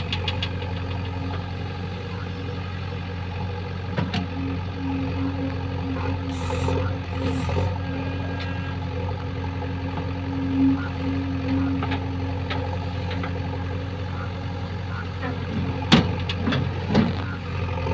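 Diesel engine of a JCB backhoe loader running steadily, with a few sharp knocks; the loudest knock comes near the end.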